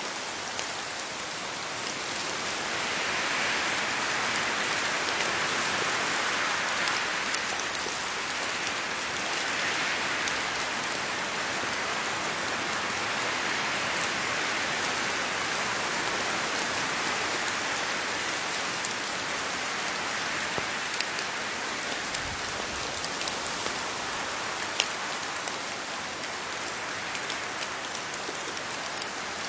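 Steady rain falling on leaves, a dense patter of drops with individual drips heard now and then. The rain swells a little twice in the first third.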